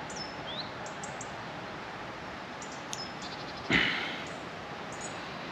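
Small birds singing short, high chirps and whistles over a steady outdoor hiss, with one sharp knock, the loudest sound, nearly four seconds in.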